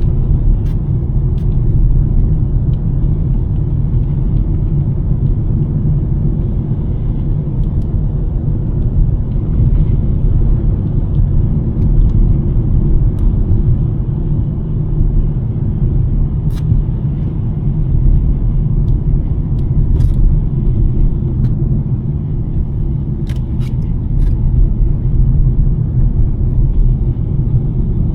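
Steady low rumble of a 2023 Nissan Sentra driving on snowy roads, tyre and engine noise, with a few faint clicks now and then.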